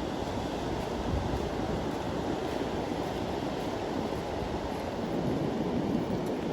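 Steady rushing, rumbling noise of wind buffeting the microphone.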